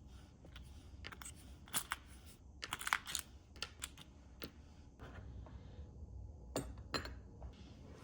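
Small, sharp clicks, taps and brief rustling scrapes of small hard parts and packaging being handled, with a flurry of clicks about three seconds in and two sharper clicks near the end, over a low steady hum.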